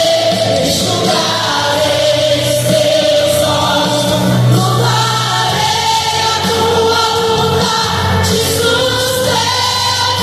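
Gospel music with a choir singing long held notes over a steady bass.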